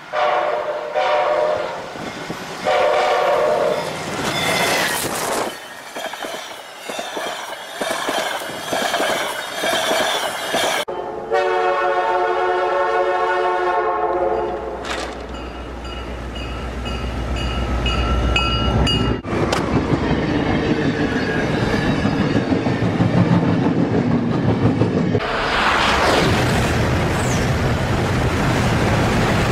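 Locomotive air horn sounding a series of blasts, ending in a long held chord. Then a low rumble builds as a locomotive ploughs through deep snow at speed, giving way to a loud steady rush of noise from the thrown snow and the passing train.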